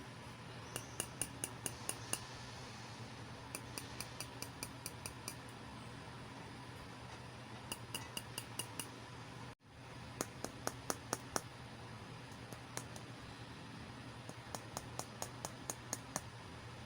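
Runs of small, sharp clicks and taps, about four or five a second in short bursts with pauses between, from miniature plastic toy pieces and packaging being handled.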